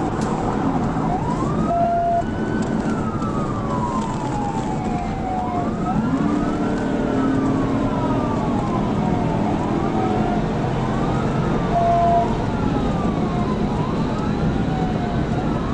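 Police cruiser siren in a slow wail, rising and falling about every four and a half seconds, over steady road and engine noise from a car at high speed. A short steady beep sounds twice, near the start and about three-quarters of the way through.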